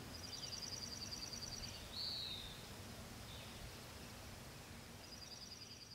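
Faint birdsong in a pine forest: a rapid high trill, a single downslurred call about two seconds in, then the trill again near the end, over a steady background hiss.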